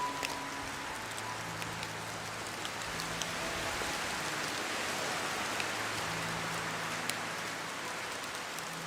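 Steady rain falling on a surface: a dense, even hiss with sharp ticks of single drops scattered through it.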